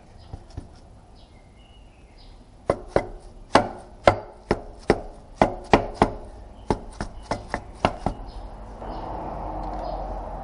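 A run of about fifteen sharp hammer blows, two to three a second, starting a few seconds in and stopping about eight seconds in, then a steady rushing noise near the end.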